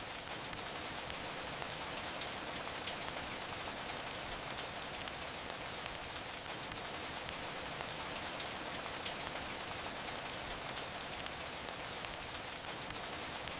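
Steady rain, with scattered sharp pops and ticks of a crackling wood fire, a few of them louder.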